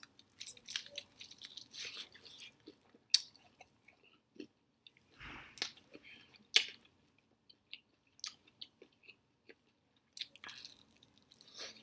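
Close-up chewing of a hot chicken wing: irregular sharp mouth clicks and crunches, with a fresh bite into the wing about ten seconds in.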